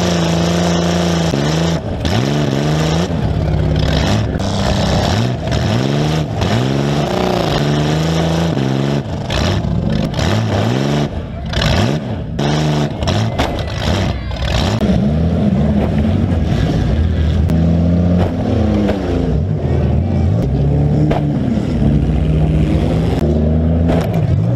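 Demolition derby car engine with open exhaust pipes through the hood, heard close up, revving up and down over and over. Several sharp bangs of car-to-car impacts come about nine to fifteen seconds in.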